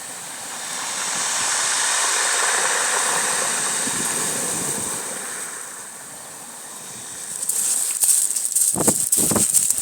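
Waves on a bay shore: a rushing swell rises and fades over a few seconds, then choppy, crackling splashing begins near the end.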